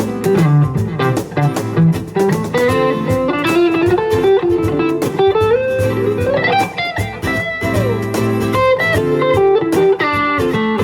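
Live band playing an instrumental passage: guitars picking a melody over a steady cajón beat, with one note sliding up and back down about halfway through.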